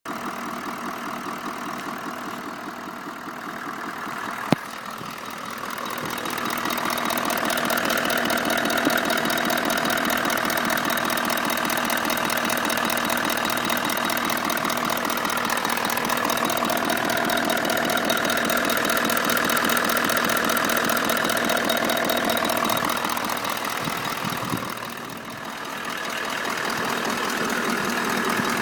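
Toyota Land Cruiser 200 V8 engine idling warm with a steady, rhythmic knock (tuk-tuk-tuk) that appears only once the engine has warmed up and is loudest on the left side of the engine behind the filter. Its cause is unknown to the owner. There is one sharp click about four seconds in, and the engine sound grows louder a couple of seconds later.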